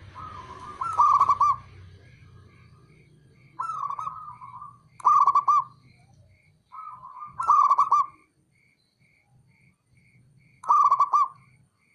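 Male zebra dove (perkutut) cooing in separate phrases, about five of them, each a short run of rolling notes. A faint, evenly repeated high pip sounds about twice a second behind the calls.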